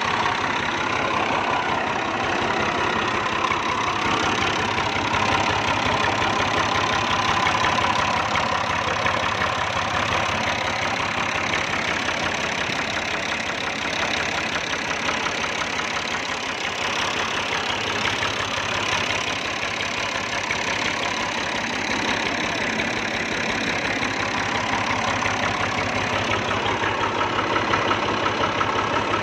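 Tractor's diesel engine idling steadily with an even knocking clatter.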